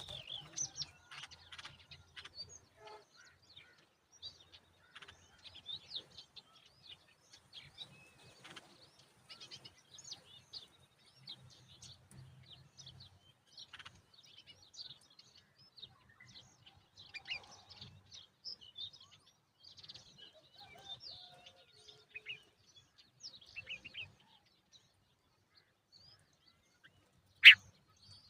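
Himalayan bulbuls chirping in short, scattered high calls that fall quiet a few seconds before the end, followed by one sharp, loud click.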